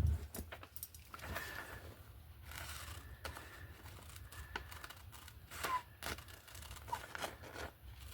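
Scissors cutting through thin magazine paper in a series of small, irregular snips, with light paper rustling.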